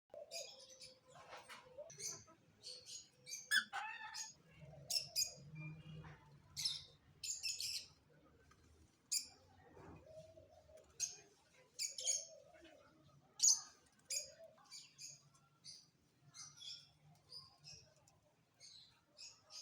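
Small birds chirping: many short, high chirps every second or so throughout, with a few lower calls between them.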